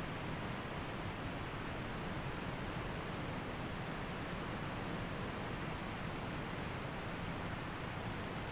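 Waterfall and creek water rushing in a steady, unbroken roar of white noise.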